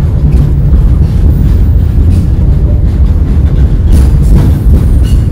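Goods train running, heard from on top of an open wagon loaded with concrete sleepers: a loud, steady low rumble with a few faint knocks near the end.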